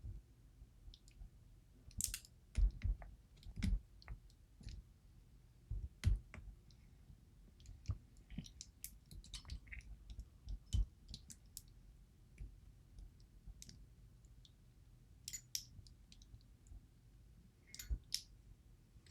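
Small irregular metallic clicks and scrapes of a worn shim being worked in around the plug of a DOM IX Twinstar lock cylinder, with a few soft knocks.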